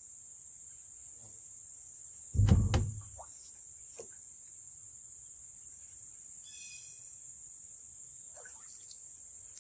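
Steady high-pitched chorus of insects such as crickets. A single dull knock comes about two and a half seconds in, and a brief high chirp sounds near seven seconds.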